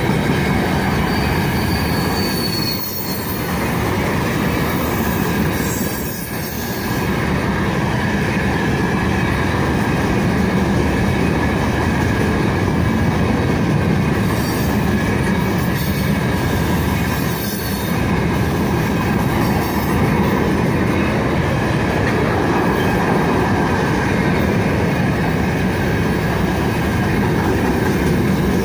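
A freight train rolling steadily past as it comes out of a curve, with a continuous high squeal of steel wheels on the curved rail over the rumble of the wagons.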